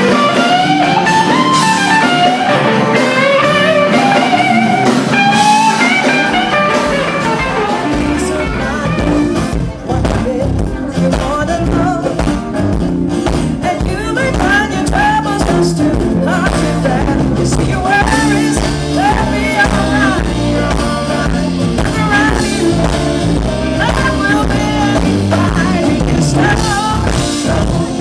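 Live blues band playing, with electric guitar lines on top. The bass and drums come in strongly about 8 seconds in.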